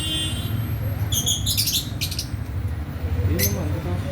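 Fischer's lovebirds giving shrill, chattering chirps in quick clusters, about a second in and again at two seconds, with a short call near the end, over a steady low rumble.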